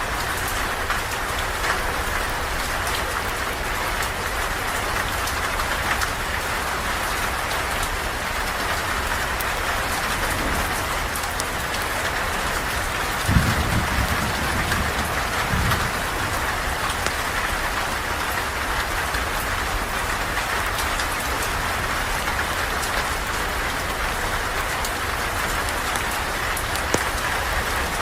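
Steady, even rain falling, with scattered sharp ticks throughout. About thirteen seconds in, a low rumble rises for two to three seconds and fades.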